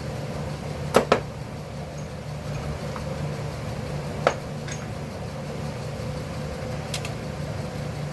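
Metal hand tools clinking together while being sorted for the right size: a sharp double clink about a second in, then single clinks at about four seconds, just under five and seven, over a steady low hum.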